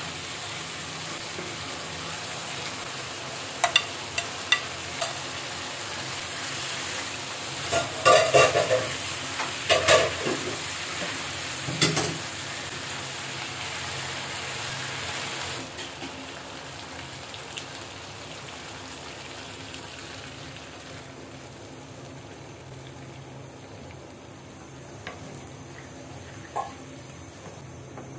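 Chicken pieces in spice masala sizzling in a nonstick pan while a wooden spatula stirs them, knocking and scraping against the pan a few times and then in a louder cluster near the middle. About halfway through the sizzle falls to a quieter steady hiss.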